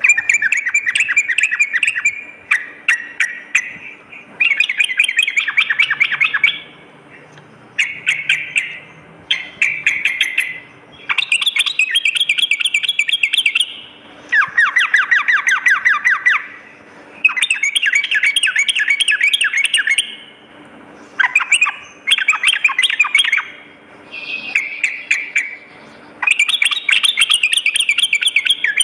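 Yellow-vented bulbul (trucukan) singing in repeated bursts of rapid chattering notes. Each phrase lasts a second or two, with short pauses between.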